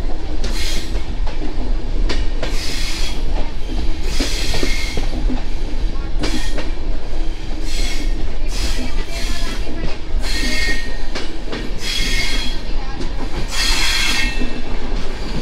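Passenger train running at speed, heard from an open coach door: a steady low rumble of wheels on rail with wind on the microphone. Hissing swells come every second or two, and thin squeals of wheels on rail come in the second half.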